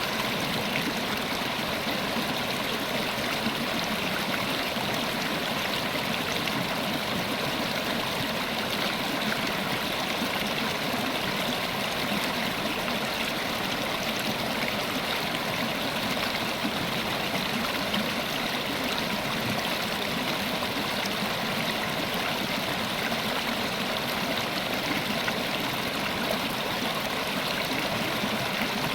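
River water flowing steadily over stones, a constant rushing and babbling with no breaks.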